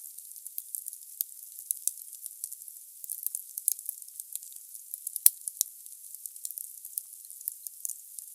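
Wood logs burning in a fireplace: a steady hiss with frequent irregular crackles, and one louder pop about five seconds in.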